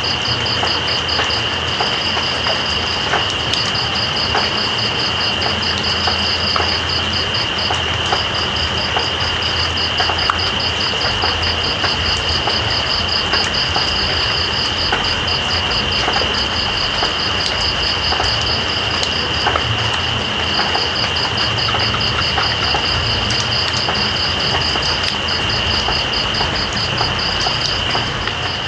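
Steady rain with insects calling: one continuous high buzz and a fast pulsing trill above it that stops briefly a few times, over an even hiss of rain with scattered drop ticks.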